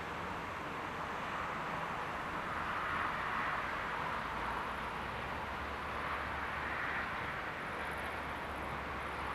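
Train running past, a steady rolling noise with a low hum underneath that swells gently twice.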